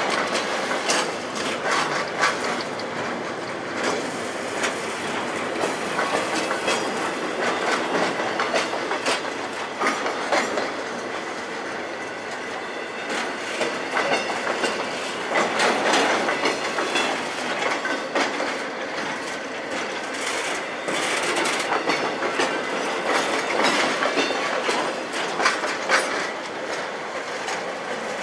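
Loaded railroad flatcars rolling past, their wheels clicking and knocking over the rail joints over a continuous rumble and rattle.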